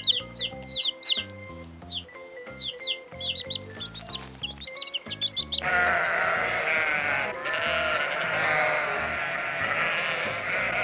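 Background music under a quick series of short, high, falling chirps; about halfway through, a dense, continuous bleating of a flock takes over.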